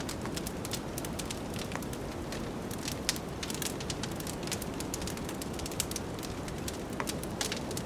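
Wood fire crackling, with frequent irregular sharp pops, over a steady low rush of wind.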